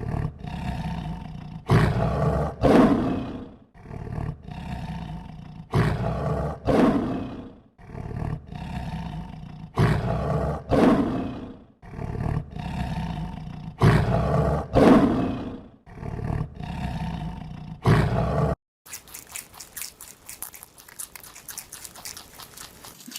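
Big cat roaring, the same sequence of two strong roars among lower growling calls coming again about every four seconds. Near the end it gives way to a fast rattling clatter.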